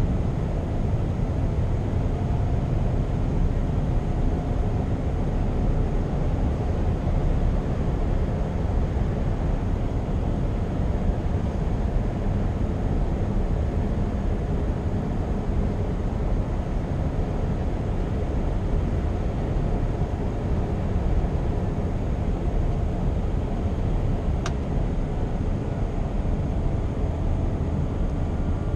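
Scania R520's 16-litre V8 diesel running steadily under way, with a constant low drone of engine and road noise. A single faint click sounds near the end.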